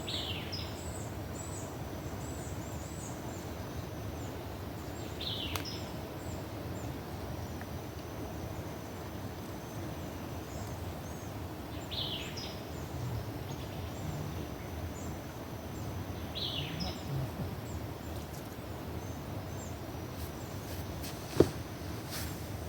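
Riverside outdoor ambience: a bird gives a short downward-sliding call four times, about every four to five seconds, over faint high chirping and a steady low rushing background. A single sharp click sounds near the end.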